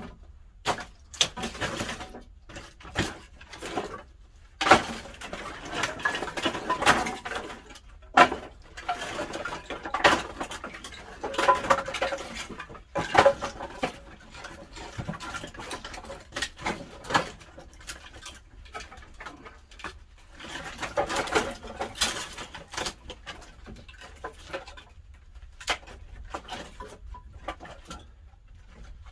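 Pine firewood burning in a wood-fired pottery kiln, crackling and popping irregularly with denser bursts of crackle.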